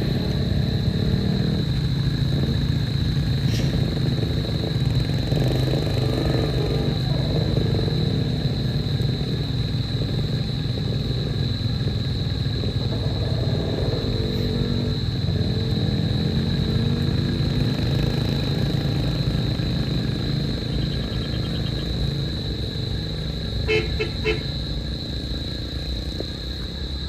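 Vehicle engine running steadily with a low rumble, and a quick horn toot of three short beeps about 24 seconds in.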